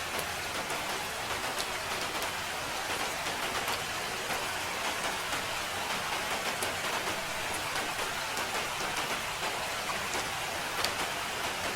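Steady rain, a constant hiss with scattered drop ticks, one slightly louder near the end.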